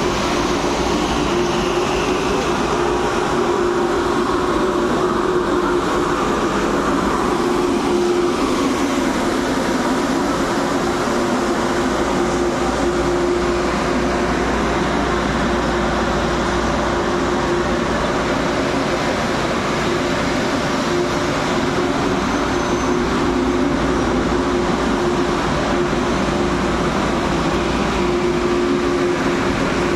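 Passenger train arriving at a station platform: a steady rumble with a steady hum over it.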